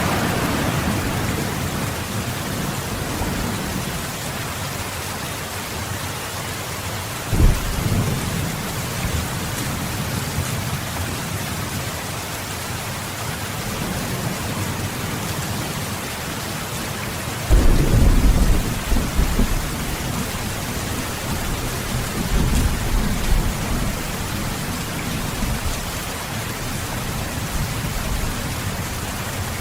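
Steady heavy rain with deep rolls of thunder: a short rumble about seven seconds in and a longer, louder one around the middle, followed by a fainter roll.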